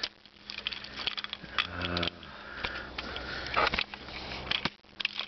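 A key rattling and clicking as it is fumbled into the mower's ignition, with scattered sharp clicks and a brief low hum about two seconds in. No engine running.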